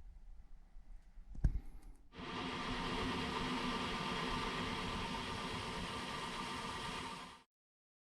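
A click, then the Panasonic NP-45VS5S dishwasher running: a steady machine noise for about five seconds that cuts off abruptly.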